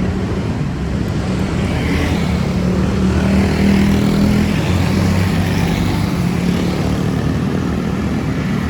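City street traffic: a motor vehicle's engine running close by as a steady low hum, swelling about three to four seconds in.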